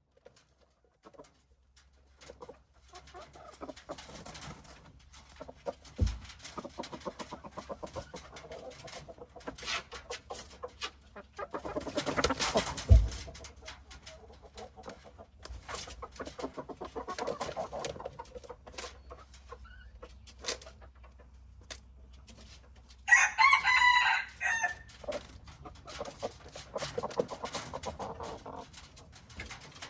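Chickens clucking, with a rooster crowing loudly about two-thirds of the way in and low thumps about 6 and 13 seconds in.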